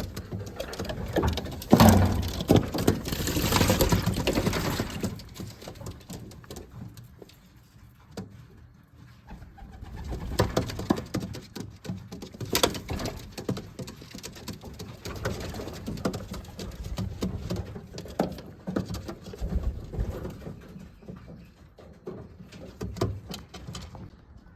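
Racing pigeons cooing around the loft. A loud burst of noise lasts about three seconds near the start, and scattered knocks and clicks follow.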